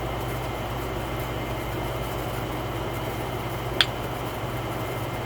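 Steady low background hum, with one short click a little before four seconds in.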